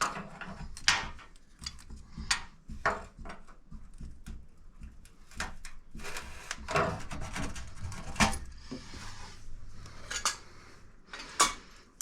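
Metal hand tools and parts clinking and clattering in a string of separate knocks as they are handled and sorted.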